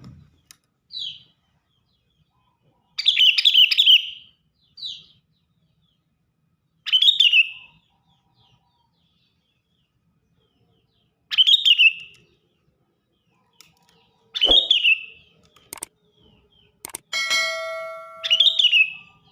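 Sooty-headed bulbul calling: short, loud chirping phrases repeated every few seconds, with quiet gaps between. Near the end, a brief ringing tone sounds just before one phrase.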